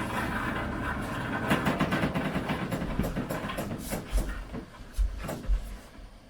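Water rushing through the household pipes into a partly drained water heater as the supply valve is reopened and the tank pressurizes, with several knocks and clatters on top. The rushing fades near the end.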